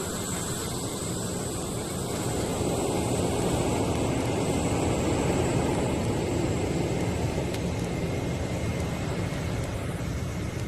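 Concorde's jet engines running: a steady rush of noise with a thin high whine over it. It grows louder about two seconds in and eases off a little after about six seconds, as the aircraft moves past.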